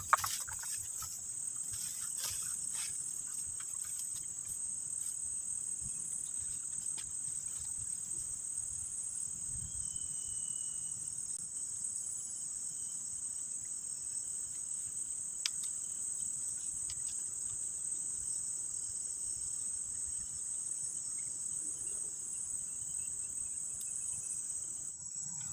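Steady high-pitched insect drone, an unbroken chorus of crickets or cicadas, with a few faint clicks and rustles in the first seconds.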